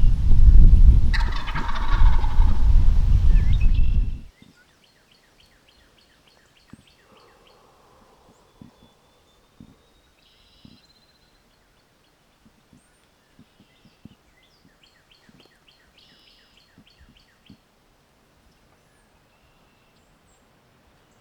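A wild turkey gobbles once, a quick rattling call about a second in, over a loud low rumble that stops abruptly after about four seconds. Faint, rapidly repeated songbird trills and small ticks follow.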